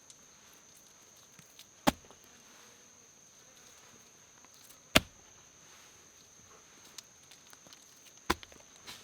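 Three single sharp chops into wood, about three seconds apart, over a steady high drone of insects.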